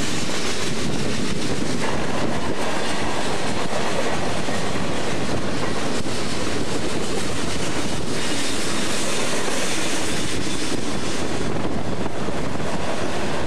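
Freight train of tank cars rolling past: a steady rumble of steel wheels running over the rails.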